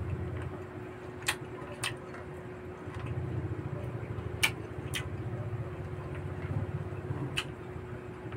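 Close-up chewing of grilled pork barbecue: wet mouth and chewing noises that come and go, with five sharp clicks or smacks scattered through, over a faint steady hum.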